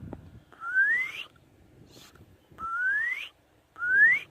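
A person whistling a spring peeper imitation with the mouth: three short whistled peeps, each rising in pitch, shaped by a 'pre' lip position.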